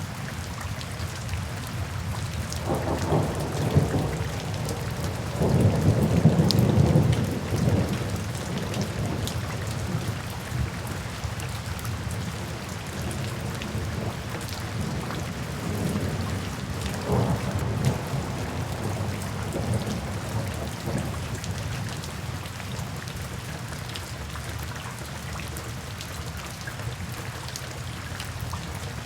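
Steady rain with rolling thunder: low rumbles swell about three seconds in, louder around six to seven seconds, and again near the middle.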